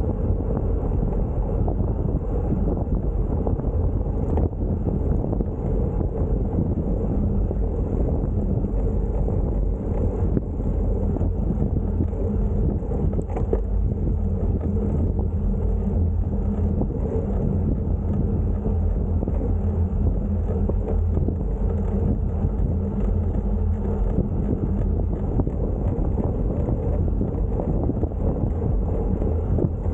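Steady wind rumble on the microphone of a camera riding on a bicycle: a constant low buffeting that keeps the same level throughout.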